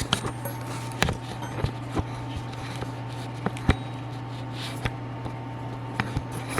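Scattered light clicks and taps of metal hand tools against the dirt bike's skid plate and bolts, over a steady low background hum.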